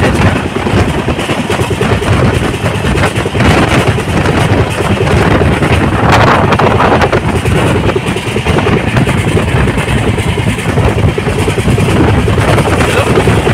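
Jan Shatabdi Express passenger train running at full speed, heard from inside the carriage: a loud, steady rumble of wheels on the track with rushing air, swelling briefly about six seconds in.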